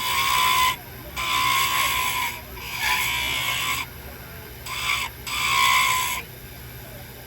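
Small wood lathe turning a wand blank, a turning tool cutting into the spinning wood in about five short passes that each last a second or so, making a hissing scrape with a steady whine. The cutting stops about six seconds in.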